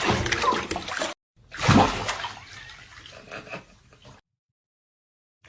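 Water splashing and sloshing that cuts off abruptly about a second in. A second, louder splash comes a moment later and trails off, then the sound drops out completely.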